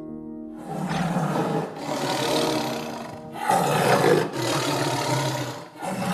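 A large animal roaring in a series of long, rough calls with short breaks between them.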